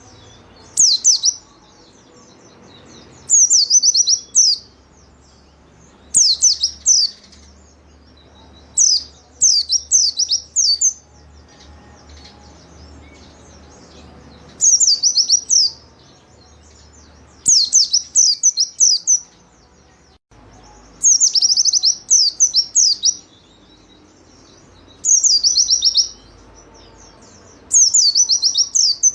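White-eye (pleci) singing: short, high phrases of rapid, quickly falling chirps, each about a second long, repeated every two to three seconds.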